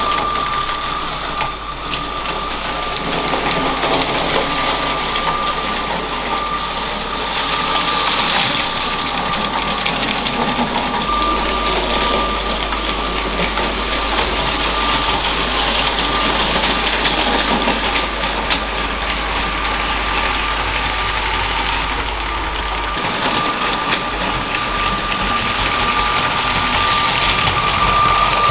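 Motorised LEGO train running on plastic track: a steady high motor whine over continuous wheel and track rattle.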